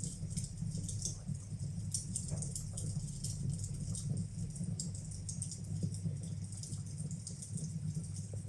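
Wood fire burning in a fireplace, crackling with many small, irregular pops over a low steady rumble.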